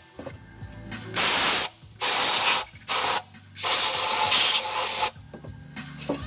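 Three bursts of pressurised spray hissing, the last and longest about a second and a half, during carbon cleaning of an engine's combustion chambers.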